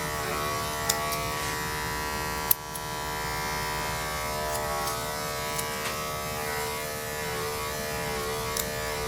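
Electric dog grooming clippers running with a steady buzz, with a few sharp clicks, the loudest about two and a half seconds in.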